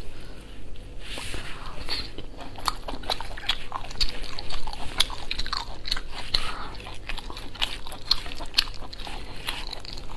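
Close-miked eating sounds: biting and chewing meat, with many small irregular wet clicks and smacks of the mouth.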